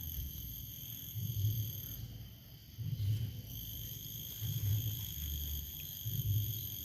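Insects chirring steadily in several high-pitched bands, dropping out for about a second and a half partway through. A low thump recurs about every one and a half seconds beneath it.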